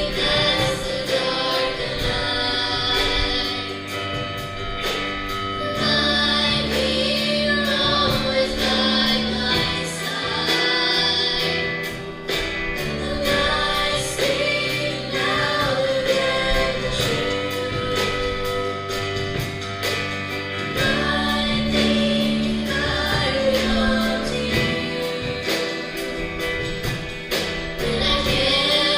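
Choral gospel-style song: a choir singing with instrumental backing and a steady beat.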